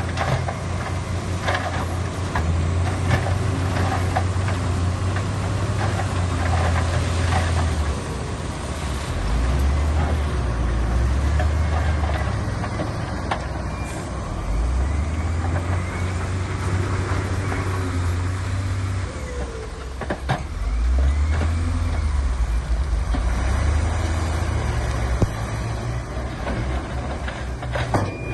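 Diesel engines of heavy earthmoving machinery running under load, revving up and down several times, with a few sharp knocks along the way.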